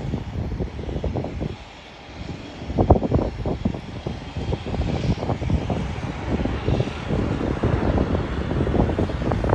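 Airliner engines rumbling, mixed with gusts of wind buffeting the phone's microphone in irregular low thumps, the strongest gust about three seconds in.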